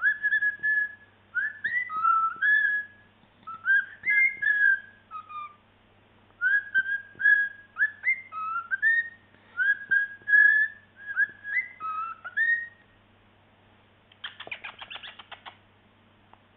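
Cockatiel whistling and chattering: phrases of short whistled notes and pitch glides with brief pauses between them. Near the end the song stops and a short burst of rapid ticking clicks follows.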